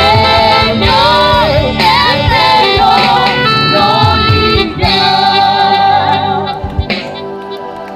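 Live gospel worship music: singers over a band with drums and keyboard, the music thinning out and getting quieter near the end.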